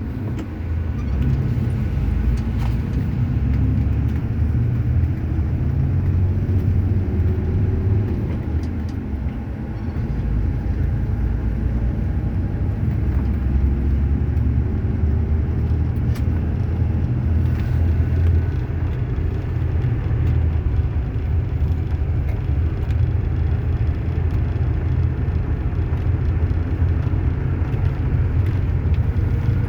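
Truck engine running while driving, a steady low rumble whose pitch slowly rises and falls a few times.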